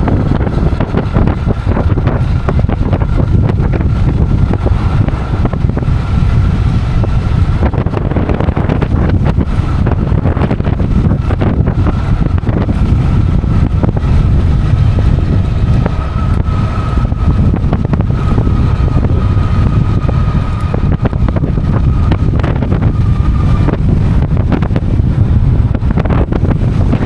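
Strong wind buffeting the microphone of a moving XP 3.0 e-bike, a heavy uneven rumble. Under it runs the thin steady whine of the e-bike's motor, which stops near the end.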